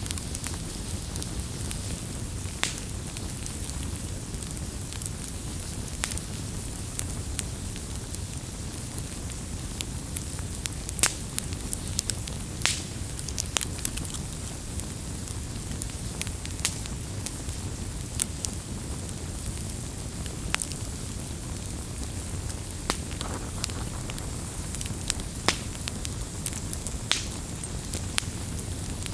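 Wood campfire burning, crackling with irregular sharp pops and snaps over a low steady rumble of the flames.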